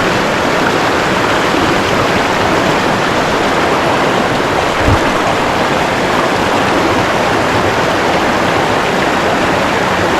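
Creek water rushing, a steady loud hiss. A brief low thump about halfway through.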